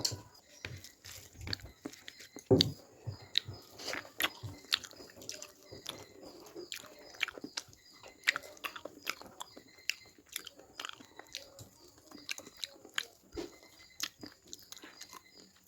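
A person eating fish up close: irregular chewing, crunching and wet mouth smacks, with a louder low thump about two and a half seconds in.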